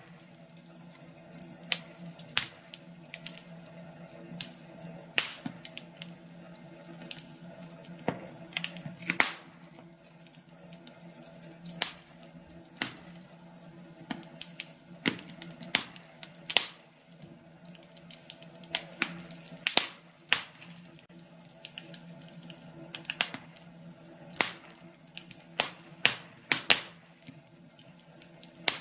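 Wood fire crackling in a fireplace: irregular sharp pops and snaps, sometimes several in quick succession, over a steady low background of the burning logs.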